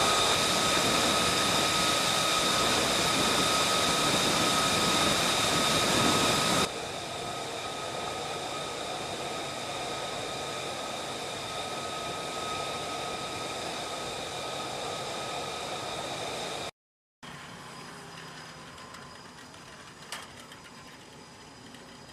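Jet engine running steadily: a loud rushing noise with a high whine on top. The level drops sharply about six and a half seconds in, cuts out briefly near seventeen seconds, then returns quieter.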